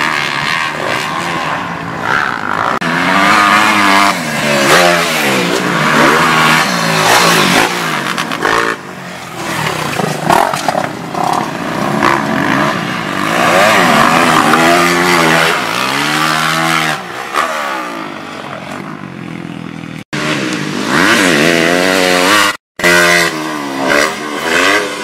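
Motocross dirt bike engines revving up and falling off again and again, the pitch climbing and dropping in repeated swells. The sound cuts out briefly twice near the end.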